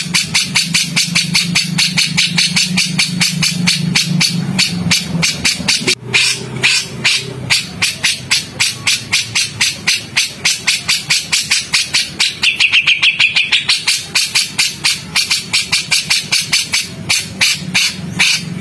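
Songbird calling in a rapid-fire run of harsh, sharp notes, about five a second without a break: the coarse 'tembakan' call used as tutor song. A low hum sits under the first few seconds, and a lower drawn note joins about two thirds of the way through.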